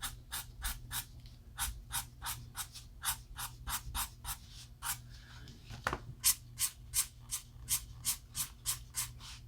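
Alcohol marker scratching across paper in quick, repeated flicking strokes, about three a second, as hair is coloured in. There is one sharper click about six seconds in.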